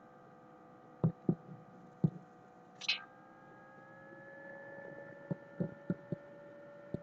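Steady hum made of several faint tones that drift slightly upward in pitch partway through, broken by a handful of short, low knocks or clicks and one brief hiss about three seconds in.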